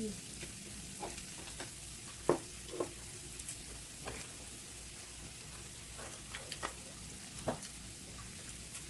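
Food sizzling on a grill, a steady frying hiss, with scattered sharp clicks and taps.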